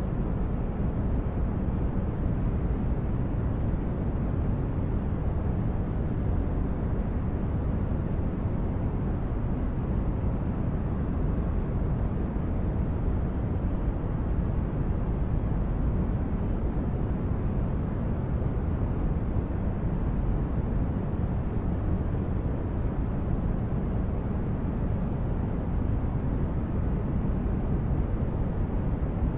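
Synthetic spaceship ambience: a steady, deep brown-noise rumble, even throughout with no distinct events.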